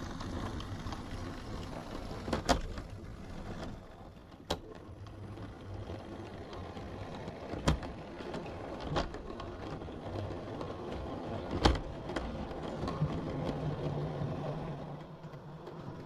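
Model railway locomotive and its train running along the track: a steady motor and wheel rumble with occasional sharp clicks from the rails, and a steady motor hum becoming clearer near the end.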